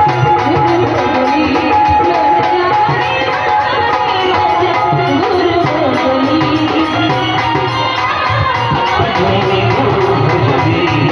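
Music: a voice singing a wavering melody over steady drum accompaniment.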